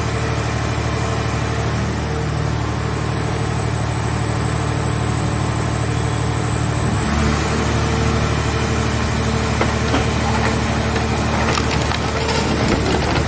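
Mobile car shell baler's engine and hydraulic unit running steadily. About halfway through the engine note changes as it takes on load. In the last few seconds there is irregular cracking and crackling as the car body is crushed.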